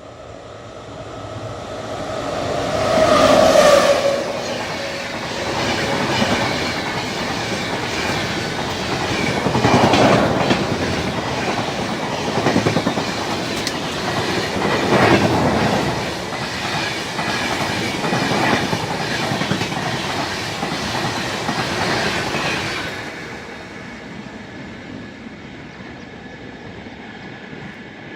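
Indian Railways train running past at speed, its wheels clattering over the rail joints with regular surges as the coaches go by. The sound cuts away sharply about 23 seconds in as the last coach passes.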